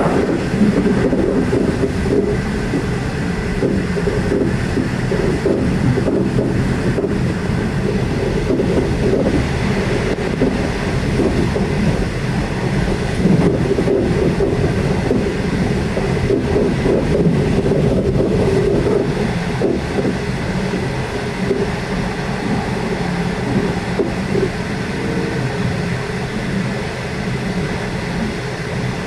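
Loco-hauled passenger train running steadily along the line: a continuous rumble of wheels on rail with faint clicks.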